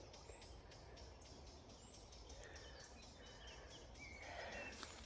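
Near silence, with faint outdoor ambience: distant birds chirping and a fast, even ticking in the background.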